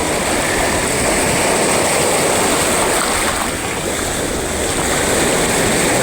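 Sea surf: waves breaking and washing ashore in a steady, loud rush that swells and eases slightly.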